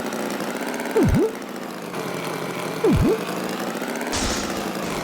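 Tractor engine sound effect running steadily. Twice, about a second in and again about three seconds in, a loud low swoop dips down and rises back up in pitch, and a short hiss comes near the end.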